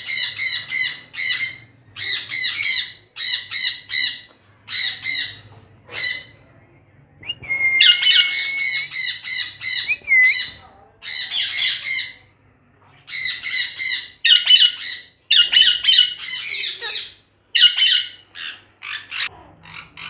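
Parrots squawking: loud, harsh screeching calls in repeated bursts, with a short lull about six seconds in and one held whistled note soon after.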